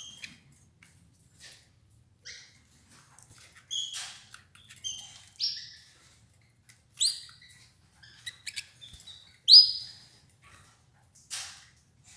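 Domestic canaries giving short, high chirping calls, one every half second to second, the loudest about nine and a half seconds in, with faint clicks in between.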